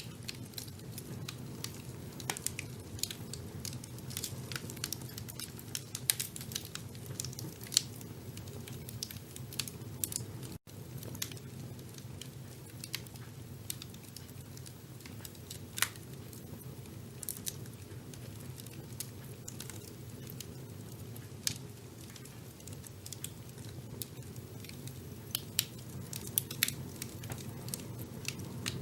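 Wood fire burning in a fireplace, crackling with sharp, irregular pops over a steady low rumble of the flames. The sound drops out for a split second about ten seconds in.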